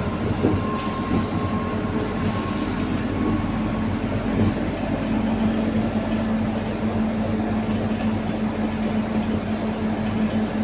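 Scania K230UB city bus's five-cylinder diesel engine running under way with a steady rumble. About halfway through, a low drone strengthens and holds.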